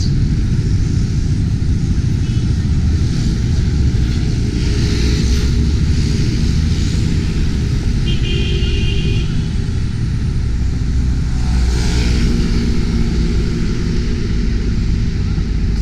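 Steady loud low rumble, with a brief high-pitched tone about eight seconds in.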